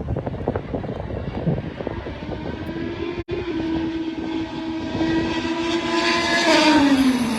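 An IndyCar's twin-turbo V6 approaching at speed on a wet track, its steady note growing louder, then dropping in pitch as the car passes near the end, with a hiss of tyre spray at the loudest point. Wind buffets the microphone in the first couple of seconds.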